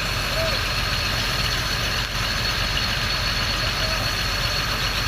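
Heavy diesel engine of farm or earthmoving machinery idling steadily, with a low rumble and a constant thin high whine above it.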